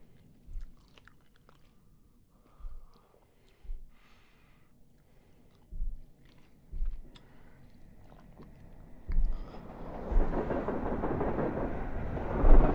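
Train wheels thumping over rail joints, the dull knocks often coming in pairs about a second apart. From about nine seconds in, the train's rolling rumble swells and grows louder.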